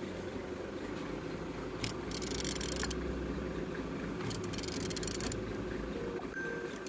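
A removed car engine being turned over by hand with a tool. There are three short bouts of scraping, ratcheting noise over a steady low background hum. The engine turns freely, which is checked to show it is not seized.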